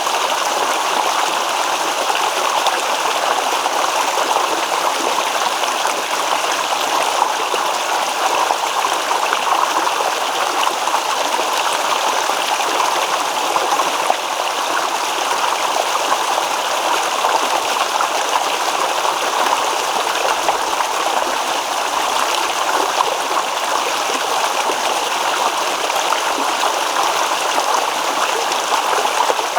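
Babbling stream: shallow water running steadily over rocks, an even rushing and trickling without pause.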